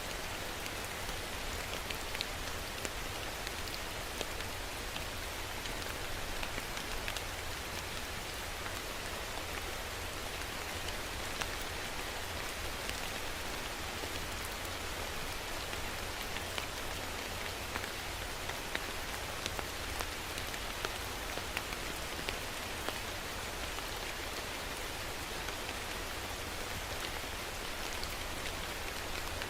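Steady rain falling, an even hiss with many small drop ticks on a surface and a steady low rumble underneath.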